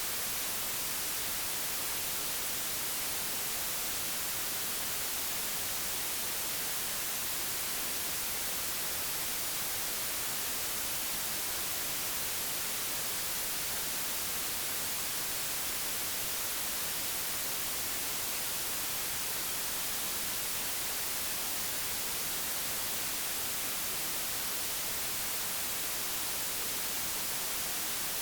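Digitally generated white noise: a steady, even hiss that does not change.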